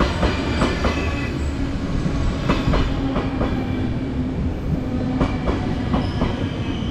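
Passenger train pulling into a station platform: a steady low rumble with wheels clicking over the rail joints.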